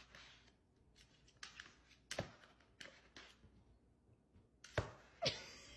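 Scattered light clicks and taps at irregular spacing, with two sharper knocks about half a second apart near the end.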